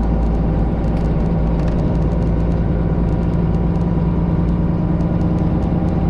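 Straight-piped Detroit Diesel 12.7-litre Series 60 inline-six in a Freightliner Classic XL semi truck, running steadily at an even pitch while driving, heard from inside the cab with a few light ticks and rattles over the drone.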